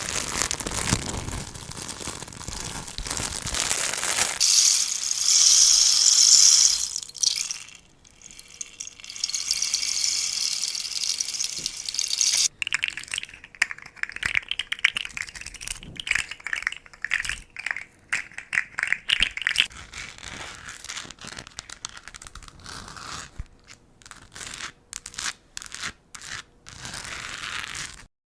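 A series of close-up ASMR trigger sounds made with handled objects: rustling and crinkling, then a bright hiss, then crackling, then scattered sharp taps. The sound changes every few seconds and stops abruptly near the end.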